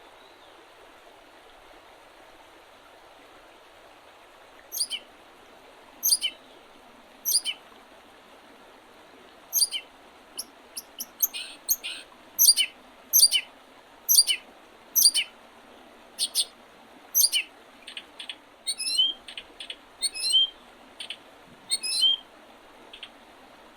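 A songbird calling repeatedly in short, sharp, high notes that drop in pitch. The notes come about one a second from about five seconds in, quicken in the middle, and include a few upward-sliding notes near the end. A steady rush of river water runs underneath.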